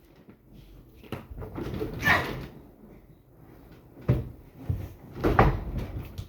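A few irregular knocks and bumps of things being handled, the loudest about two seconds in and about five and a half seconds in.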